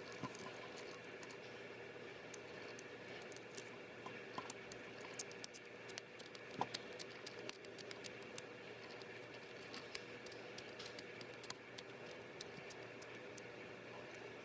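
Irregular small clicks, ticks and scratches of tools and small parts being handled during a Canon PowerShot S110 compact camera repair, over a faint steady hum. The clicks come thickest through the middle.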